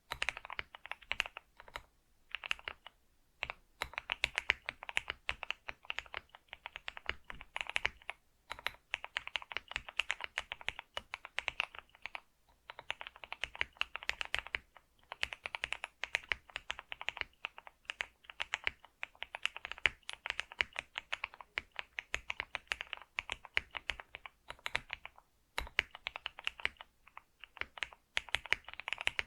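Computer keyboard being typed on: fast runs of key clicks, broken by short pauses.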